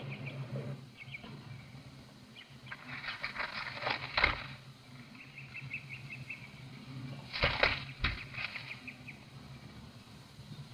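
Small songbirds chirping and trilling in short phrases of quick high notes, with a low steady hum underneath.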